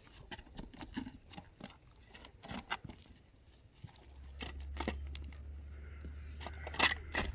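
Scattered light clicks and knocks, with a low steady rumble starting about four seconds in and two louder sharp knocks near the end.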